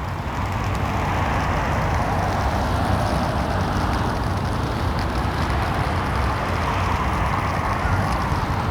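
Steady rushing road noise from an electric kick scooter riding on a wet road: tyre hiss and wind.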